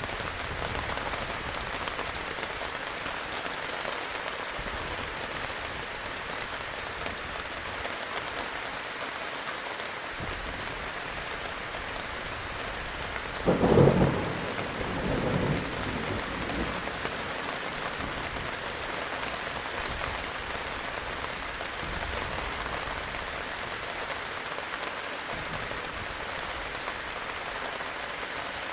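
Heavy rain falling steadily. About halfway through, a loud clap of thunder is followed a moment later by a second, weaker rumble.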